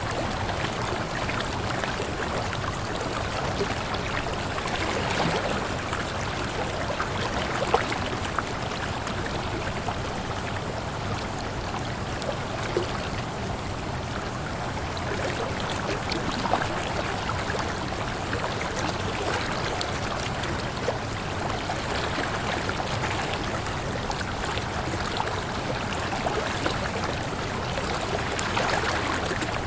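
A waterfall, water falling and splashing in a steady, continuous rush with small splashes scattered through it.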